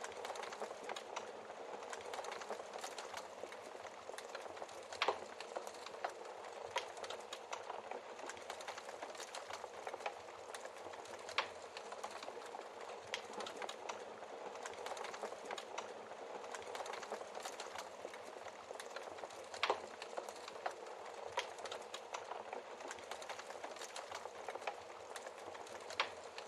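Wood fire crackling in a fireplace: a steady hiss with frequent small irregular pops and a few louder snaps from the burning logs.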